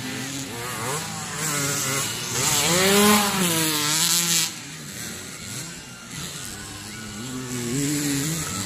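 Motocross dirt bike engines revving up and down as they race. The loudest pass comes about two to four seconds in, its pitch rising and then falling away.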